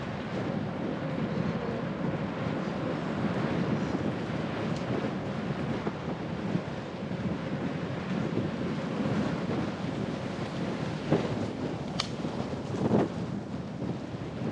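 Steady wind rush on the microphone and tyre rumble of a moving bicycle. A few knocks come near the end, the sharpest one about twelve seconds in.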